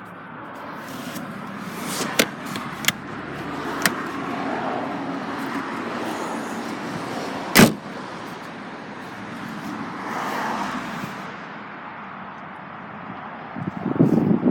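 Latch clicks and knocks from the car's split-folding rear seats and boot being handled, with one loud thump about halfway through.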